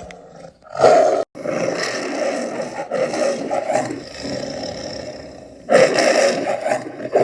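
A big cat roaring: a loud roar about a second in, cut off briefly by an edit, then a long stretch of lower, rougher calling and another loud roar near the end.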